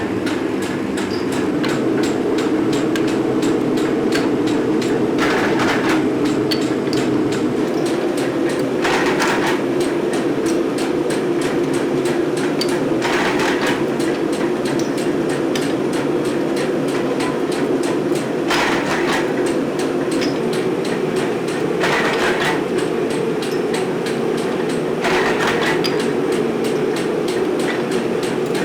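Metalworking machinery running steadily while mild steel pin stock is worked, with rapid even ticking and a short rasping burst about every four seconds.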